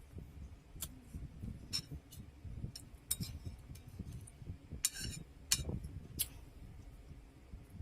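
Close-miked eating: chewing and mouth sounds, with a spoon and fork clinking against a plate about half a dozen times, loudest about five seconds in.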